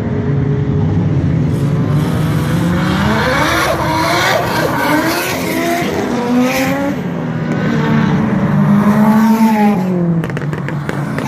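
Several race cars' engines accelerating down a wet track straight and passing by, overlapping. Their pitches rise through the gears and drop as each car goes by, loudest a little before the end.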